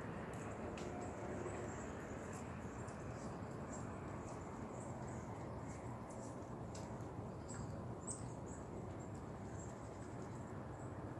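Outdoor ambience: a steady low background hush with many short, faint, high-pitched chirps scattered throughout.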